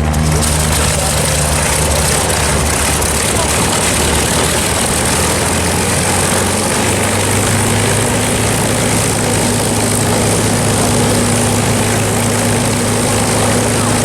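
P-51 Mustang's V-12 piston engine running steadily at low power, a continuous propeller and engine drone whose pitch shifts slightly about halfway through.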